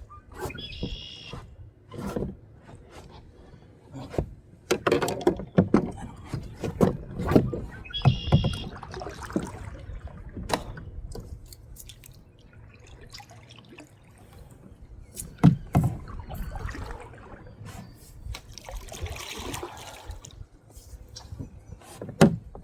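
Knocks and bumps against a small jon boat as the angler moves and handles gear, over low wind and water noise. Twice, about a second in and about eight seconds in, there is a short high chirp.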